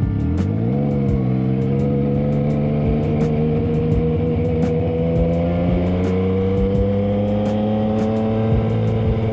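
Motorcycle engine under way: it picks up revs in the first second, then cruises with the pitch climbing slowly as it gathers speed.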